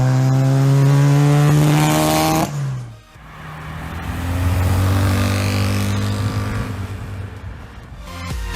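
NSU Ro 80's twin-rotor Wankel engine revving, rising steadily in pitch until it cuts off abruptly, then running again lower, swelling and fading. Music with a beat starts near the end.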